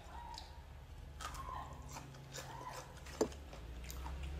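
Close-up chewing of instant cup noodles, with a sharp click about three seconds in and a few faint whine-like tones that rise and fall.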